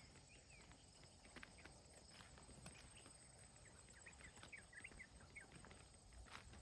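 Faint footsteps of someone walking, a soft irregular click now and then, with a quick run of faint high chirps around the middle.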